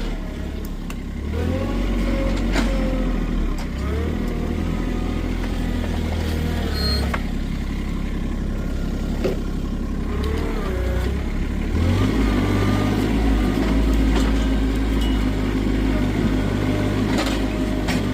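A motor vehicle's engine running steadily, its pitch shifting up and down at times, with scattered clicks and knocks over it.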